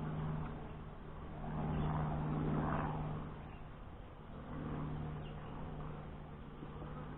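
Saskatraz honey bees buzzing around an open hive: a steady low hum that swells twice as bees fly close past.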